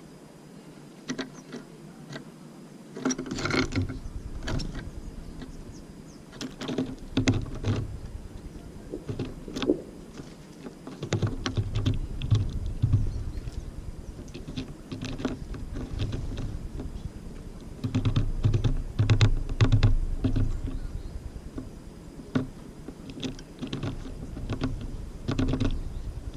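Tits at a seed feeder close to the microphone: a run of sharp irregular taps and clicks from pecking and claws on the feeder, with low rumbling knocks in three stretches as birds land and hop about.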